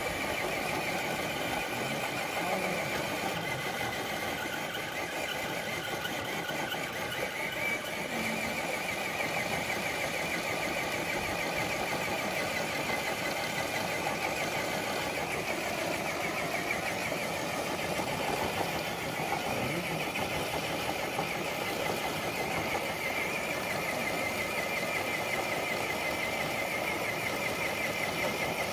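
Electric motor and geared drivetrain of an RC scale truck running under load as it drags a dead-weight sled, giving a steady whine that holds nearly the same pitch throughout.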